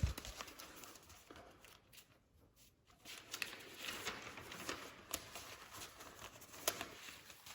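Faint, irregular rustling with a few light clicks, after about two seconds of near silence early on.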